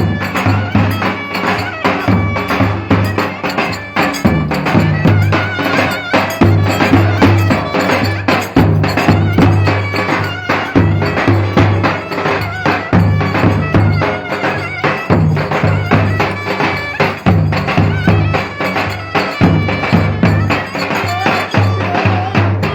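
Loud traditional Turkish folk dance music of the köçek kind: a pitched melody line over a steady, pulsing low drum beat with light percussion.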